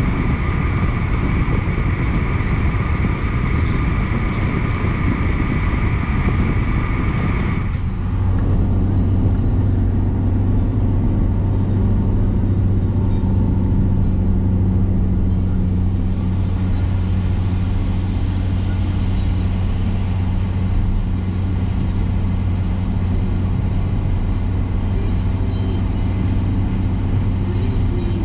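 Steady car cabin noise of engine and tyres on a wet road, a constant low hum. About eight seconds in, a higher steady tone cuts off and the low hum grows stronger.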